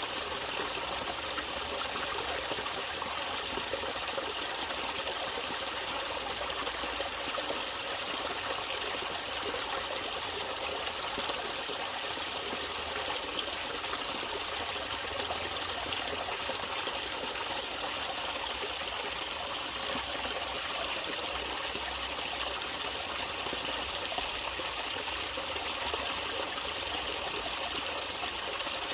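Natural running water, a stream trickling and flowing steadily.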